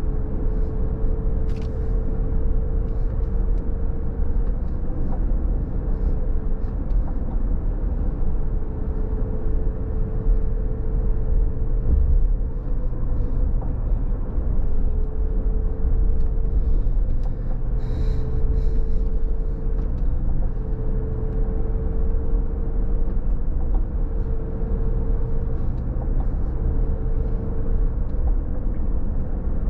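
Car driving on a rain-wet road: steady low road and tyre rumble, with a faint steady hum that breaks off every couple of seconds and a few light ticks.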